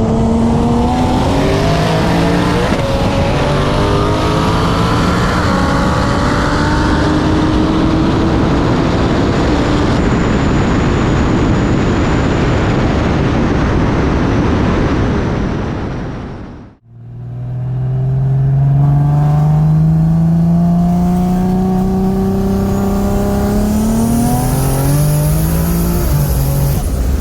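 Turbocharged race cars at full throttle in a roll race, engines climbing in pitch through the gears. The sound drops out for a moment about two-thirds of the way in, then one engine pulls steadily up through a long gear and shifts near the end.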